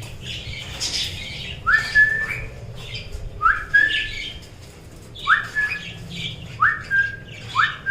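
Flock of caged budgerigars chattering steadily. A louder rising whistled call, which levels off at the top, repeats about five times, one every second or two.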